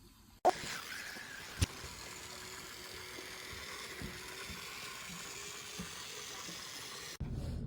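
Battery-powered toy train running: a steady whirring hiss with a faint hum, broken by a sharp click about half a second in and another about a second later. It cuts off suddenly near the end.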